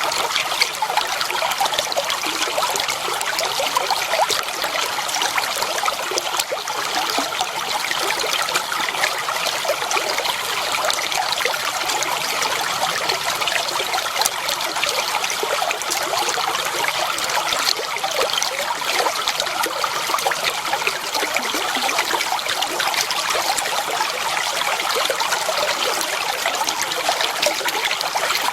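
Clear water flowing steadily, trickling and babbling in a shallow stream.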